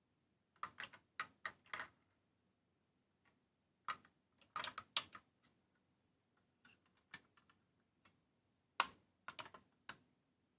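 Small plastic and metal parts of a 1:24 diecast model kit being handled on a work surface: clusters of short sharp clicks and taps, a group about a second in, another around the middle, and a last group near the end.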